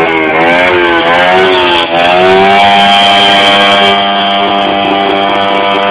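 110cc motorcycle engine revving up, easing off briefly about two seconds in, then held at high revs for a few seconds.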